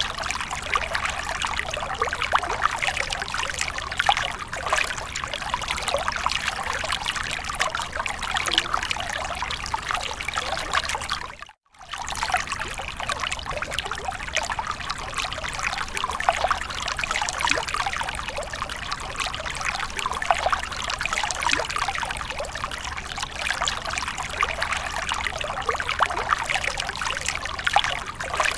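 Running water splashing and trickling continuously, a dense patter of many small irregular splashes. The sound cuts out completely for a split second about twelve seconds in, then resumes as before.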